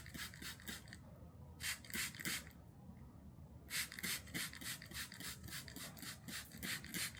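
A knife blade being worked by hand on an abrasive in quick back-and-forth scraping strokes, about five a second, in three runs with short pauses between, the longest in the second half.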